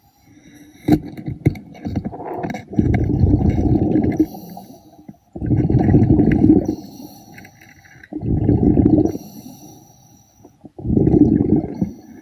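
Underwater diver breathing through a regulator: four bursts of exhaled bubbles about every three seconds, with a fainter hiss of inhaling between them and a few sharp clicks near the start.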